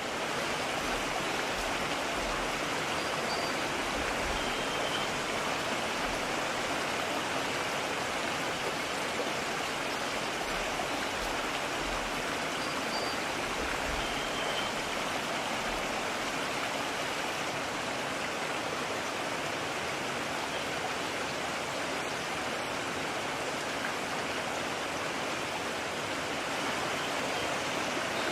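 Mountain stream running steadily, an even rush of water without let-up.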